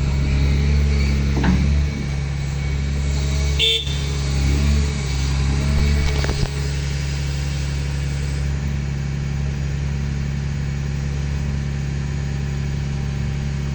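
An engine running steadily with a constant low drone, and a short clatter about four seconds in.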